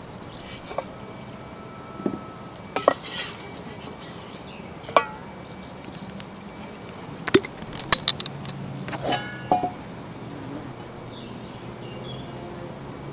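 Cookware and utensils clinking and knocking during outdoor camp cooking: a scattering of separate sharp clinks and taps, a quick cluster about two thirds of the way through, one clink ringing briefly.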